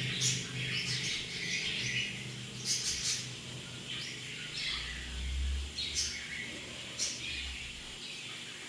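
Small songbirds chirping: short, high calls and chirps every second or so, with a brief low rumble about midway.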